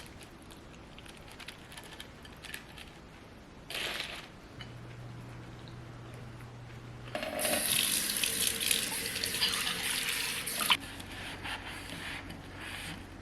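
Water running from a tap into a sink. It is loudest from about seven to eleven seconds in, over a faint steady low hum.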